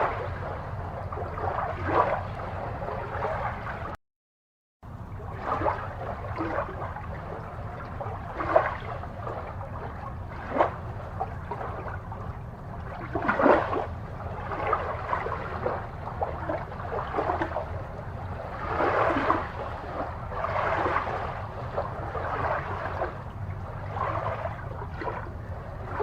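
Aquarium water gurgling and bubbling irregularly over a steady low hum. The sound cuts out completely for about a second, some four seconds in.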